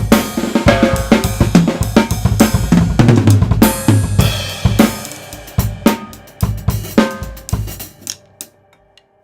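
Tama Swingstar drum kit with Meinl cymbals being played: a busy run of snare, bass drum, hi-hat and cymbal strokes, then a few heavy hits about six to seven seconds in. The kit rings out and stops shortly before the end.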